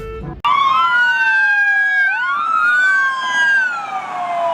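Toy police car's siren wailing, several tones sliding slowly up and down and crossing each other; it starts abruptly about half a second in.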